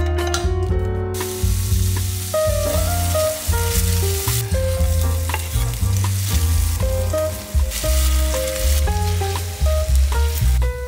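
Meat and chopped onion sizzling as they fry in a skillet and are stirred, the hiss starting about a second in. Background music with a heavy bass line plays throughout.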